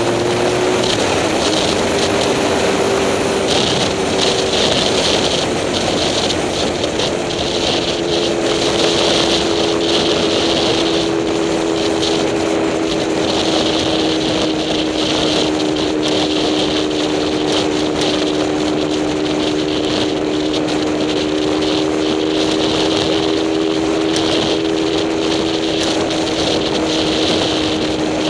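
A vehicle's engine running at a steady speed while driving: a hum holding nearly one pitch and drifting slowly lower, over a constant rushing road noise.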